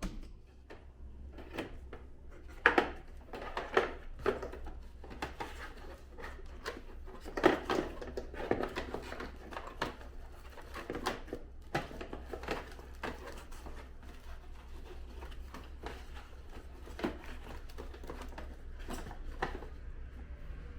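Irregular clicks and knocks of hard plastic and metal parts being handled and fitted together as an air conditioner indoor unit is put back together, over a steady low hum.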